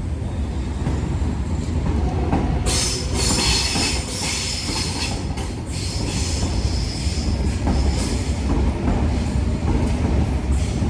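Train running through the station: a steady low rumble, joined about three seconds in by high-pitched wheel-on-rail noise and clacks over the rail joints.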